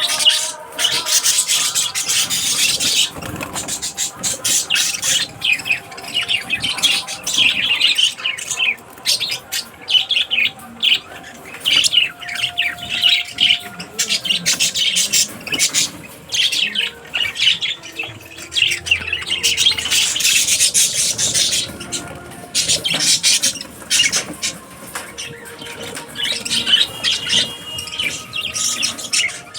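Small pet parrots chattering and squawking in rapid clusters of high-pitched chirps and harsh calls, with brief lulls between.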